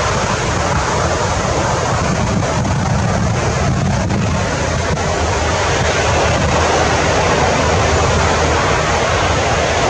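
Loud, steady rushing noise with no distinct calls or knocks in it.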